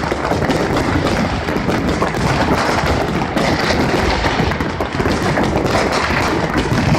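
Many fireworks and firecrackers going off at once: a dense, continuous barrage of pops and crackles with no let-up.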